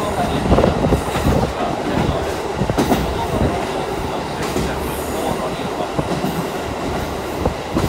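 Kushiro Shitsugen Norokko sightseeing train running along the line, heard from aboard the passenger car: a steady rush of wheel and rail noise with irregular clacks of the wheels over rail joints.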